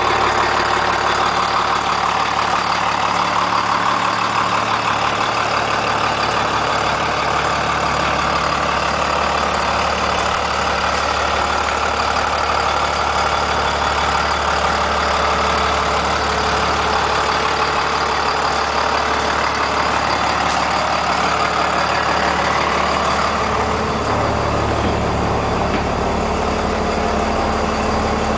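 Cummins 5.9-litre turbocharged inline-six diesel of a 1999 Blue Bird TC2000 bus idling steadily.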